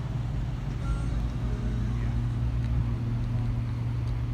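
Cars idling nearby: a steady low engine rumble that holds one pitch throughout, with faint voices in the background.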